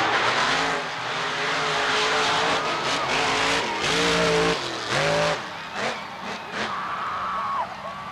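Monster truck engines running hard under a loud wash of noise, with two sharp revs climbing in pitch about halfway through, then the noise easing off near the end.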